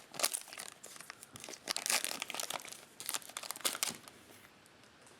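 Crinkling of foil trading-card pack wrappers as packs are handled and opened, in a quick run of short crackles that die away about four seconds in.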